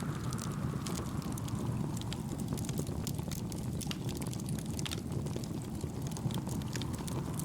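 Campfire firewood crackling, with many small sharp pops, over a steady low rumble of wind and gentle waves.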